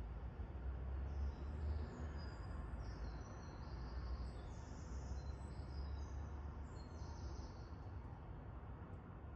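Small birds chirping in many short, high notes that die away near the end, over a low steady rumble.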